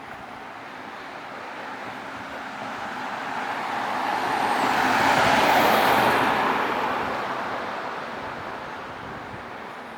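A road vehicle passing close by on a city street. The engine and tyre noise swells to a peak about halfway through, then fades away.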